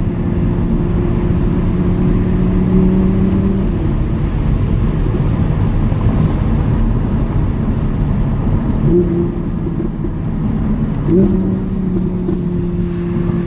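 The Audi R8 V10 Plus's 5.2-litre naturally aspirated V10 running at a steady, fairly low-rev cruise over road and tyre noise. Its note drops back for several seconds in the middle, then comes in again with a short rise in pitch about eleven seconds in.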